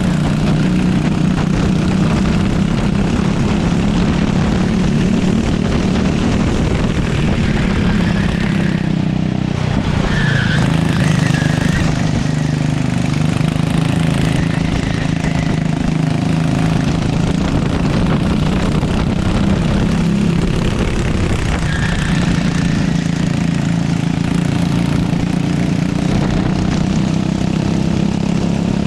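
Racing kart engine running hard, heard from on board. Its pitch falls and climbs back twice, about nine seconds in and again about twenty-one seconds in, with a steady rush of noise underneath.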